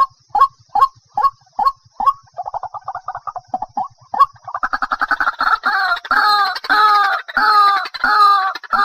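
White-breasted waterhen call recording, played as a lure. Short single notes repeat about two and a half times a second, break into a fast stutter about two seconds in, then give way at about four and a half seconds to louder, longer notes at the same steady beat.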